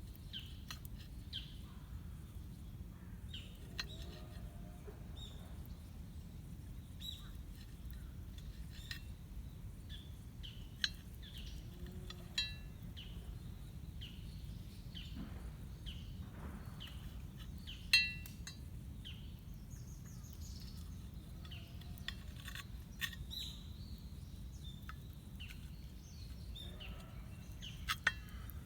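Wild birds calling with short chirps, over and over, with a few sharp clinks now and then, the loudest about two-thirds of the way through.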